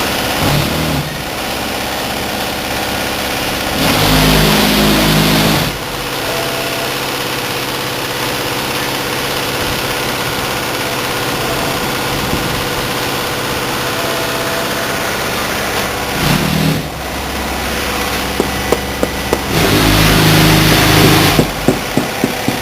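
Truck engine running steadily, rising louder twice as it pulls harder, with a run of sharp clicks near the end.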